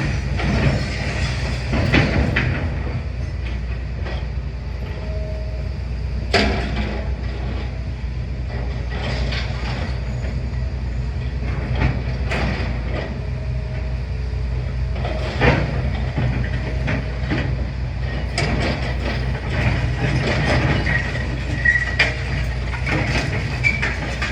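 Demolition excavator's diesel engine running steadily, with irregular knocks, cracks and clatter of rubble being broken and dropped.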